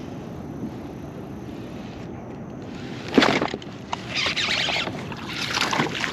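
Water splashing beside a kayak: a sharp splash about three seconds in, then two longer swishing splashes a second or so apart.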